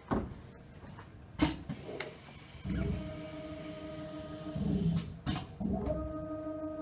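Small CNC milling machine's motor whining at a steady pitch in two runs of about two seconds each, with sharp clicks before and between them. This is the machine moving its tool changer to the newly selected station 4.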